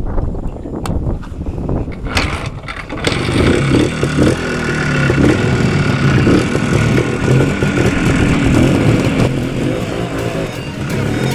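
Minsk motorcycle engine running under way, mixed with wind and road noise; the engine note gets louder about three seconds in and then rises and falls with the throttle.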